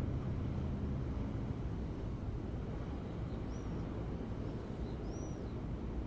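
Ocean waves: a steady low rumble of surf, with a few faint short high chirps about halfway through and again near the end.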